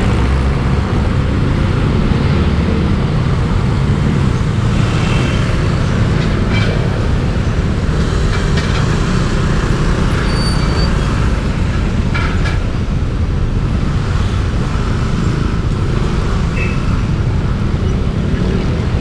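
Riding noise from a Yamaha Aerox 155 scooter's single-cylinder engine under way, with a steady low rush of wind on the microphone and road traffic around. A few brief high-pitched sounds cut through now and then.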